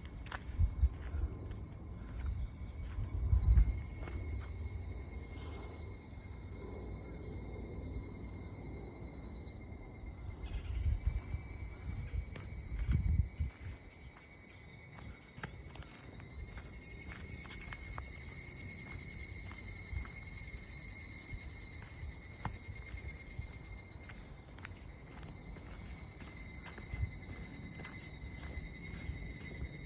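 Steady, high-pitched chorus of insects that runs without a break, with a few low thumps at the microphone about three seconds in and again around eleven and thirteen seconds.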